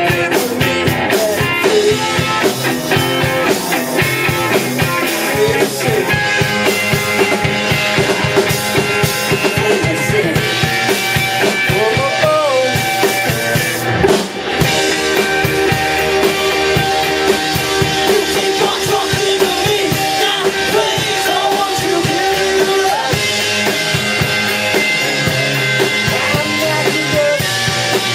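Live rock band playing loud, with guitar and drum kit and some singing; the sound briefly breaks off about halfway through before the band comes back in.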